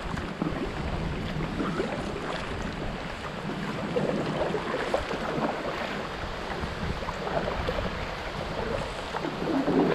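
Water splashing and lapping around a moving kayak, with wind rumbling on the microphone.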